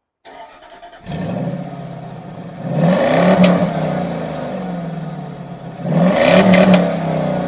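A car engine starting up about a second in and settling into a steady idle through the exhaust, then revved twice, at about three seconds and six seconds, each rev rising and falling back to idle.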